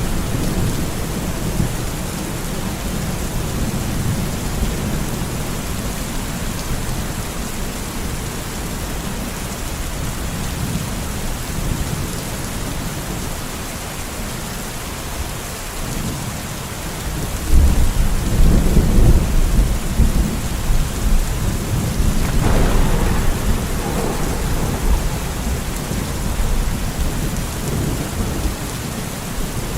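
Steady rain with rolling thunder rumbling underneath. The thunder swells louder a little past the middle, and a sharper clap follows a few seconds later.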